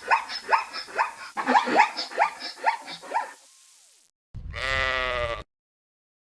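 Animal calls: a quick run of short calls that rise and fall, about three a second, then after a short break one longer, louder call lasting about a second.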